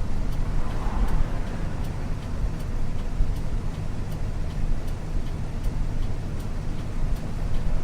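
Isuzu U-LV224N route bus running along, heard from inside the cabin: the 6QB2 diesel engine drones steadily under road noise. A faint regular ticking sounds about one and a half times a second.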